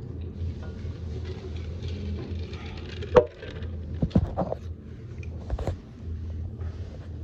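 A few sharp knocks and clatters over a steady low hum. The loudest comes about three seconds in, with a quick cluster just after four seconds.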